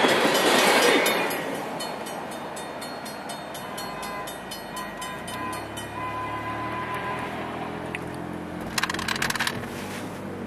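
Freight train tank cars rolling past a grade crossing, their wheels rumbling loudest in the first second, with the crossing signal's bell ticking rapidly and evenly. From about halfway on, the steady hum of a car's engine and road noise from inside the cabin, and a short burst of clicking near the end.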